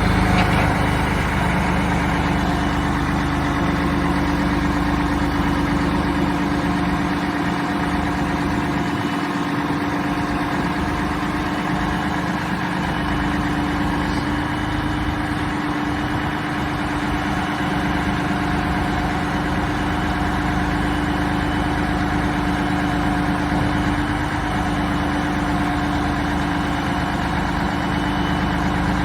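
Mack heavy-duty roll-back truck's diesel engine idling steadily.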